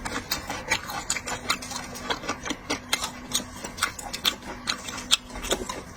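Quick, irregular clicks and crackles, several a second, of seafood shells and utensils being handled during eating, over a faint steady hum.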